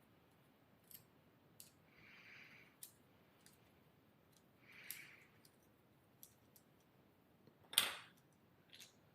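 Faint, scattered clicks and light rustling as the small plastic and metal parts of a Quad Lock stem mount are handled and pulled apart. The sharpest click comes near the end.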